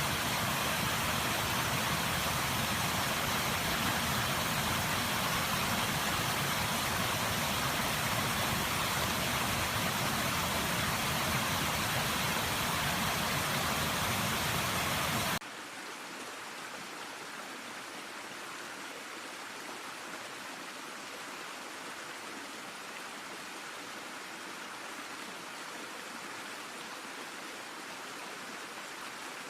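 Flowing stream water, a steady full rushing sound that cuts off suddenly about halfway through to a quieter, thinner trickle of water.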